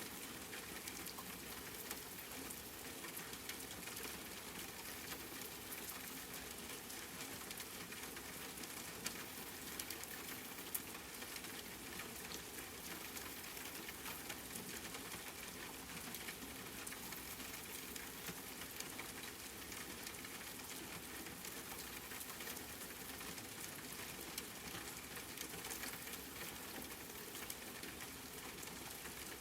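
Steady rainfall, an even hiss with scattered sharper drop ticks, a couple of them louder around the middle.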